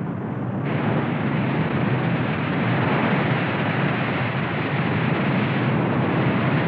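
A loud, steady, rushing rumble of noise with no pitch, growing fuller in the upper range about half a second in: a soundtrack effect for the earth's deep forces.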